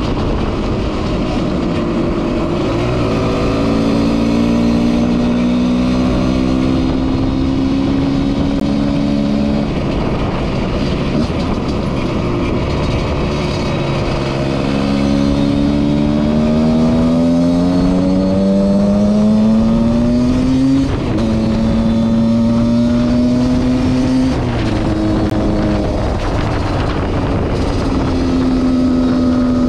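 Husqvarna SM 125 two-stroke engine under way, revving as the bike accelerates. Its pitch climbs slowly and drops back several times as gears are shifted, then holds steady at cruising revs.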